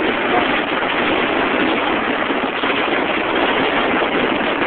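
Strong storm wind blowing hard across the microphone: a steady, loud rushing noise.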